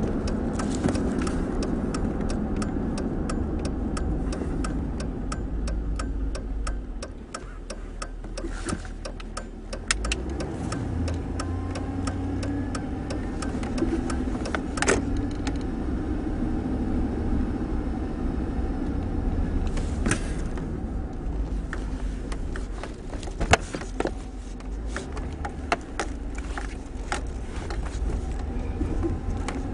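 Pickup truck engine and road noise from inside the cab while driving; the engine drops off, then picks up again as the truck accelerates. Over it, runs of rapid, regular ticking come and go.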